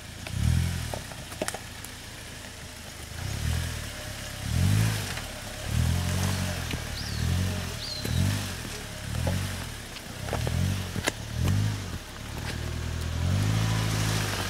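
Suzuki Jimny Sierra JB43's 1.3-litre four-cylinder engine being revved up and let back down again and again, about once a second, as the vehicle crawls over rocks and logs. Near the end it holds a steadier, higher note, with a few sharp clacks from the trail.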